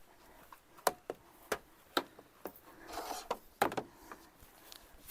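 Objects being handled: a series of sharp clicks and knocks, with a brief rustle about three seconds in.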